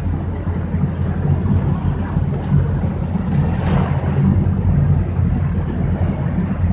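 A motorboat under way: the engine runs with a steady low rumble under the rush of water and wind on the microphone, with a louder surge of splashing noise a little past the middle.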